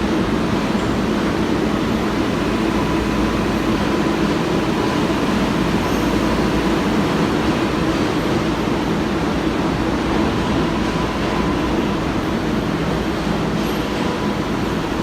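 Steady noise of an R188 New York City subway train, even throughout, with a faint steady high tone over it.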